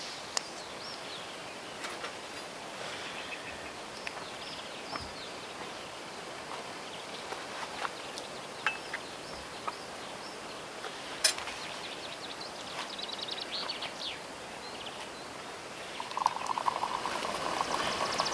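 Wild birds chirping and singing in woodland, with a few sharp clicks. A louder, rapidly pulsing trill comes in near the end.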